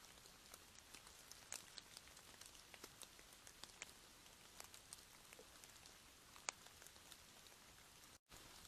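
Faint steady rain: a soft hiss with scattered single drops tapping, several a second. The sound cuts out completely for a moment near the end.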